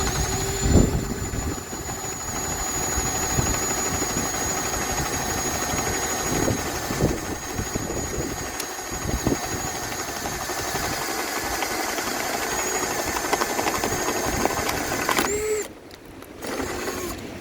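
Baur 20-volt cordless impact driver boring a spade bit through a wooden board on its low setting, running steadily with a high whine and occasional knocks of the bit biting the wood. It stops about 15 seconds in and runs again briefly near the end as the bit breaks through.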